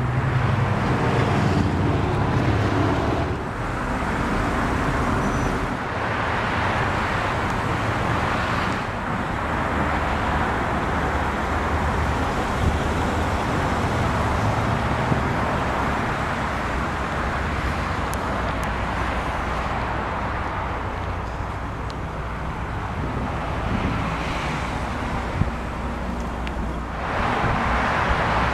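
Volkswagen Phaeton's 6-litre W12 engine idling steadily as a low hum, under a rushing noise that swells and fades every few seconds.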